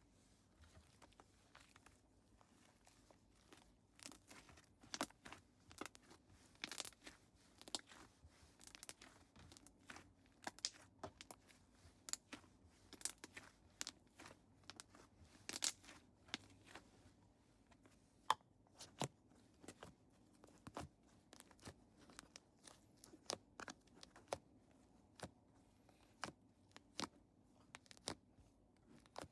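Slime being squeezed and stretched by hand, giving irregular crisp crackles and pops several times a second, which grow denser and louder about four seconds in.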